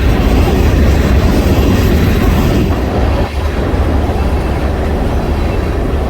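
Freight train rolling past with a loud, steady rumble that dips briefly about three seconds in.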